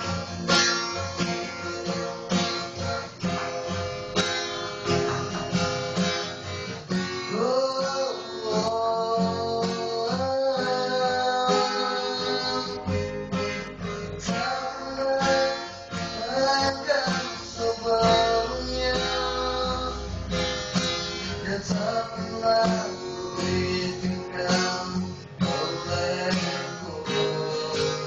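Acoustic guitar strummed, with a solo voice singing a melody over it from about seven seconds in.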